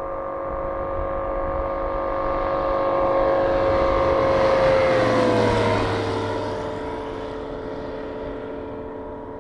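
A light propeller airplane flying past: a steady engine-and-propeller drone grows louder, its pitch drops as it goes by about five seconds in, and then it fades away.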